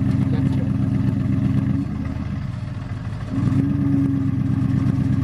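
Aston Martin GT4's V8 engine running steadily at low revs, heard from inside the cabin. About two seconds in it drops quieter for a second and a half, then picks up again.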